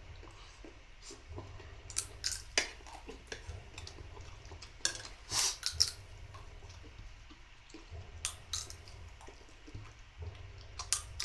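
Spoon and fork clinking and scraping against a plate while eating, a scattering of short sharp sounds with the busiest stretch about halfway through.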